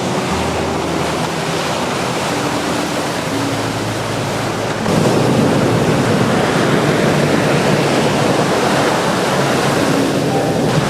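Steady rushing outdoor water noise, rain and surf, stepping up in level about halfway through.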